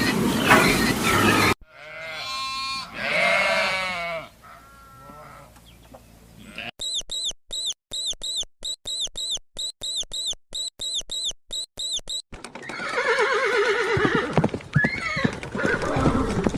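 A run of different animal calls cut one after another: first pitched calls, then a fast, even series of high chirps, about three a second, for several seconds, then another drawn-out call that falls in pitch.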